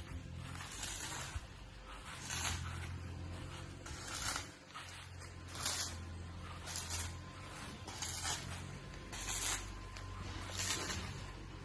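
Scraping, crunching steps about once a second over a steady low hum, the noise of someone walking across the site with the recording phone.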